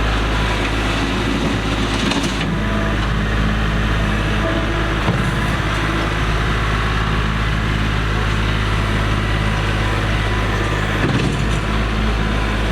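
Kubota tractor's diesel engine running steadily at an even speed.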